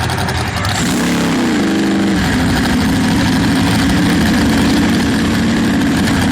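Sprint boat engine running loud; its pitch drops about a second in, then holds steady.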